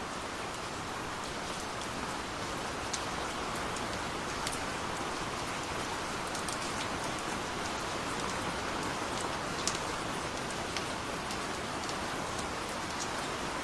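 Steady rain falling, a soft even hiss with scattered individual drops ticking on a surface.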